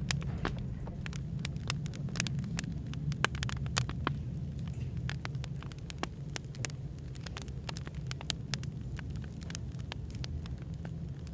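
Wood fire crackling, with many irregular sharp pops and snaps, over a steady low rumble of background noise.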